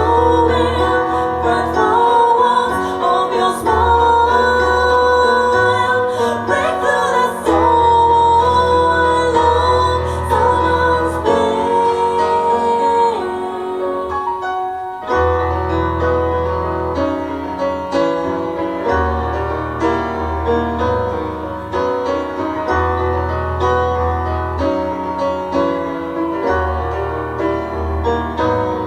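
Live band music: a singer's melody over keyboard or piano and a steady bass line. About halfway through the voice drops out and the instruments carry on alone.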